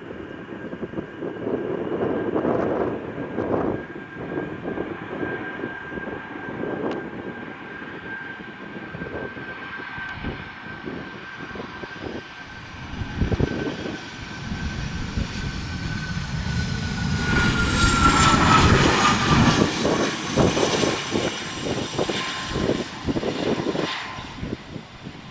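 Dassault Falcon 50's three turbofan engines whining on landing approach, growing louder to a peak about eighteen seconds in as the jet passes, the whine dropping in pitch as it goes by. Gusty wind buffets the microphone throughout.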